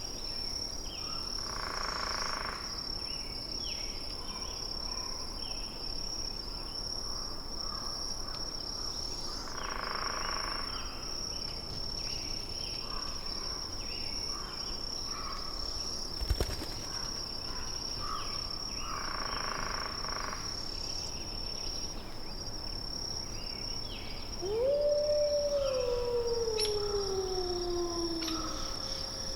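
A wolf howls once near the end, rising, holding, then sliding slowly down in pitch over about four seconds, with a fainter second howl falling above it. Underneath runs a steady high-pitched insect-like drone with faint chirps, three soft swells of noise and a single click about halfway through.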